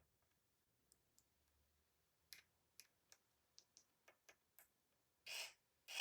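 Faint small clicks and light taps of manicure tools being handled during gel removal, irregularly spaced, followed by a short, louder scratchy rustle a little after five seconds in.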